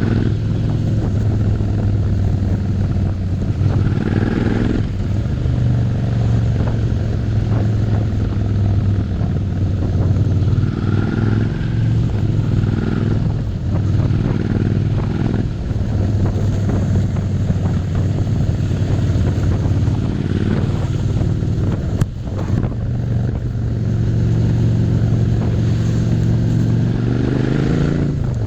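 Suzuki SV650's 90-degree V-twin engine running under way, its pitch climbing under throttle and dropping at gear changes several times, over steady road and wind noise.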